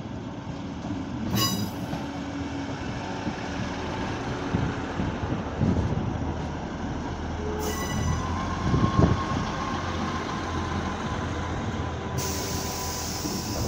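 ScotRail Class 158 diesel multiple unit passing close by, its diesel engine running with a steady low hum and wheel and rail noise. Two sharp clicks, about six seconds apart, and a hiss sets in near the end.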